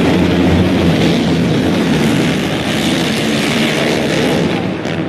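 Vehicle engine running at a steady pitch, with a loud rushing noise over it.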